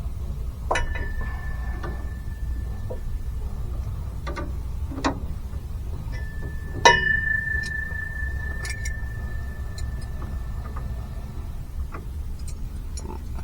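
Metal hand tools clinking and knocking, with two sharp metallic strikes that ring at one clear pitch: the first about a second in, briefly, and a louder one about seven seconds in that rings on for about five seconds. A steady low hum runs underneath.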